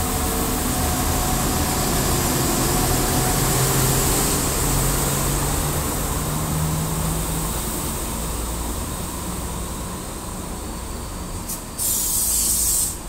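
Spirit of Queensland diesel tilt train rolling past along the platform: a steady rumble of engine and wheels with a low engine note, fading as the train moves on. Near the end comes a sudden sharp hiss lasting about a second.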